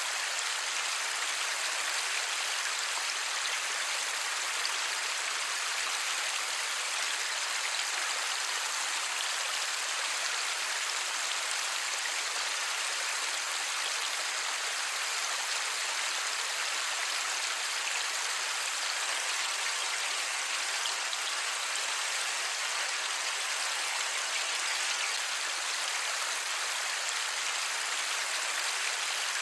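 Steady light rain falling, an even hiss of many small drops with no thunder.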